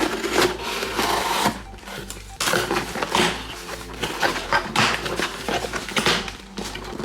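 A delivery package being torn open and handled: irregular rustling and ripping noises in quick succession.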